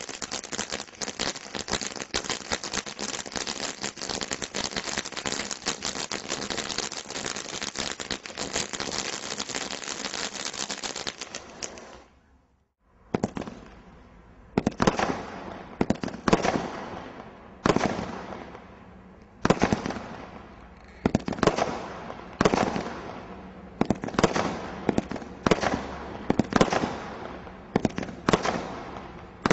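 Fireworks. Dense, continuous crackling lasts about twelve seconds and then stops abruptly. After a brief pause comes a string of separate loud bangs, roughly one a second, each trailing off.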